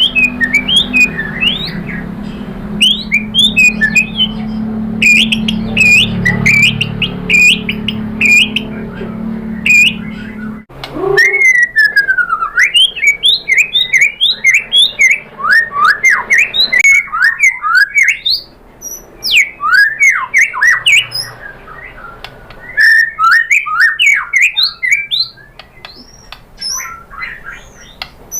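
White-rumped shama (murai batu) singing a long, varied song: quick runs of short whistled notes and chips, then slower sweeping whistles after a break about ten seconds in. A low background hum under the first part drops out at that break.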